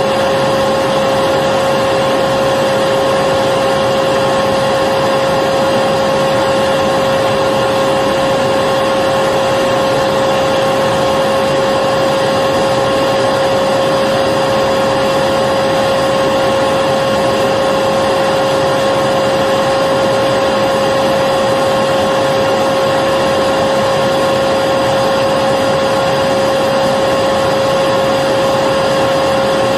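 Electric vacuum cleaner running steadily: a constant motor whine over an even rush of air, with no change in speed.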